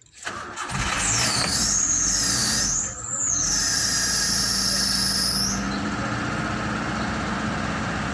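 A vehicle engine starts and settles into a steady, low idle, now that the corroded battery terminals have been cleaned with sandpaper. A high, wavering squeal sounds over it for the first few seconds and then stops.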